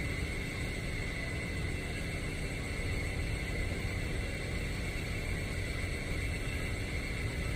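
Steady low machinery rumble with a constant high-pitched whine over it.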